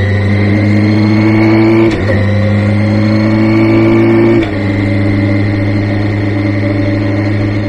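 Kawasaki Ninja ZX-6R inline-four engine running, its pitch rising slowly, with two short dips in level and pitch about two seconds in and again about four and a half seconds in.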